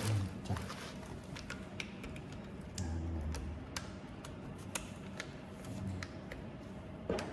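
Irregular light clicks and taps of small parts being handled and fitted by hand: carbon brushes and their holders going into a belt sander's motor. A few soft low thuds come near the start, about three seconds in and about six seconds in.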